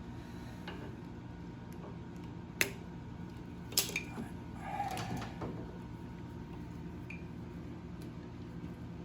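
A few sharp metallic clinks of tools and parts being handled, the loudest about two and a half seconds in and another near four seconds, over a steady low hum.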